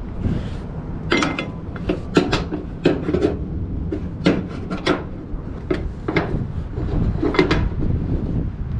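Cargo strap hooks knocking and scraping against an aluminum flatbed trailer's side rail as the straps are hooked up underneath: a dozen or so irregular short clanks and rubs.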